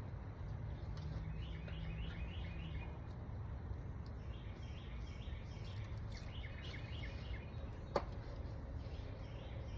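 Birds chirping in short repeated calls over a steady low background rumble, with one sharp click about eight seconds in.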